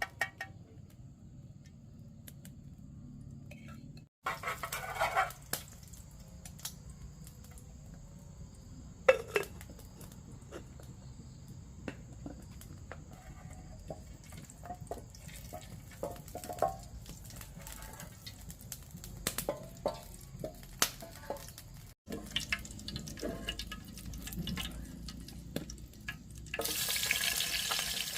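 Kitchen work: scattered clinks and knocks of pots and utensils with water sounds. Near the end a loud steady hiss starts.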